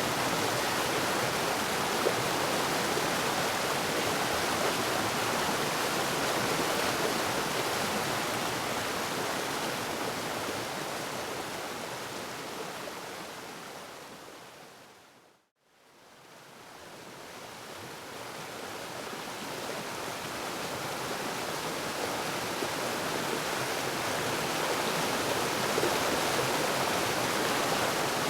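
Waterfall rushing steadily, a dense even roar of falling water. About halfway through it fades smoothly down to silence and then fades back up again, like the seam where a looped recording joins.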